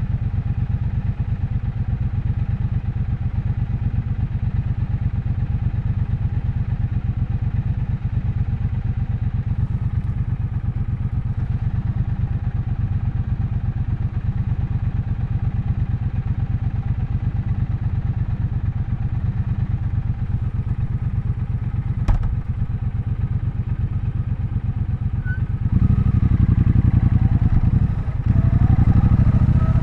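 Triumph Bonneville Bobber's 1200 cc parallel-twin engine running steadily, then opening up and getting louder near the end, with a brief drop in between like a gear change as it accelerates. A single sharp click sounds about three-quarters of the way through.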